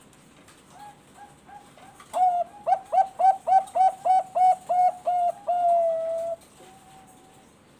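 Zebra dove (Bangkok-bred perkutut) singing. A few soft coos lead into a quick run of about ten loud, clipped notes at roughly three a second, and the song ends in a longer drawn-out note.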